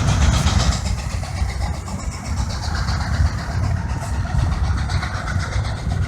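Case steam traction engine running under load while pulling a gang of plows: a steady, uneven low rumble.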